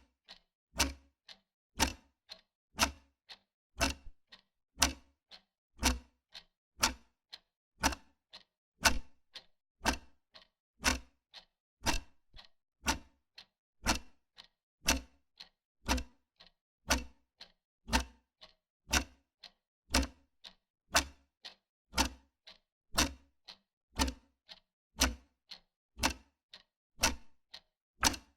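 Wall clock ticking steadily, about one loud tick a second with a fainter tick between.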